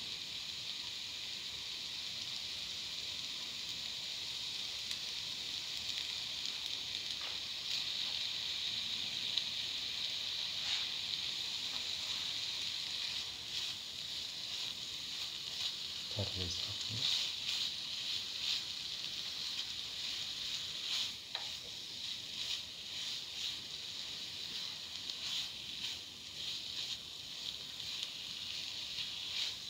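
Ground coconut paste and sliced tomato sizzling in oil in a frying pan, with a spatula stirring and scraping against the pan; the scrapes come often in the second half. A brief low sound about halfway through.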